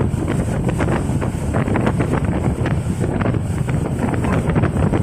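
Wind rushing hard over the microphone on a moving banana boat out at sea, with many irregular short splashes of water.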